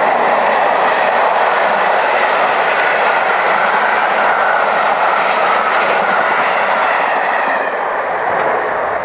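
Loud, steady wheel-and-rail noise as a rake of passenger coaches runs past at speed. It dies away near the end as the last coach clears.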